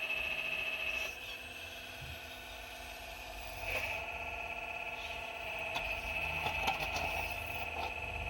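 A 4200XL excavator running with a steady high-pitched motor whine. Several sharp knocks and scrapes come in the second half as the bucket works among rocks.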